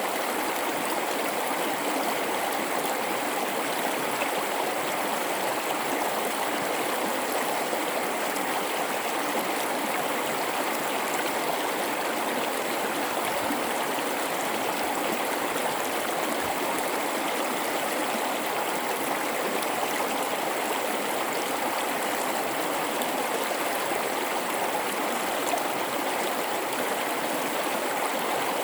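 A river flowing through a gorge: an even, unbroken rush of water that holds steady throughout.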